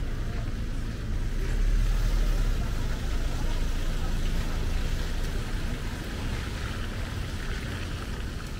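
Wet city street ambience: a steady low rumble of traffic with an even hiss on top, and faint voices.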